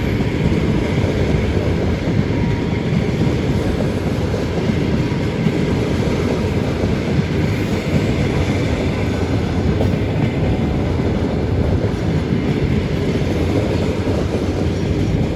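Passenger train rolling past: a loud, steady rumble of steel wheels on the rails with some clatter over the track, easing off just after the end.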